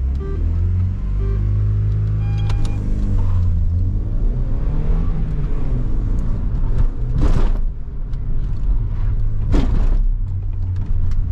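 Car engine running hard, its pitch rising and falling as the revs change. Two short, sharp noises cut across it about seven and nine and a half seconds in.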